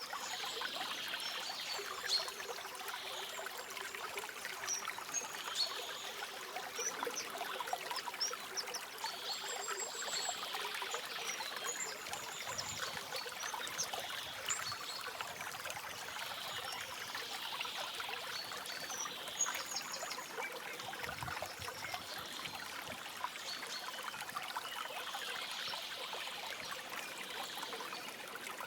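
Stream water trickling and babbling steadily, with short high bird chirps scattered throughout.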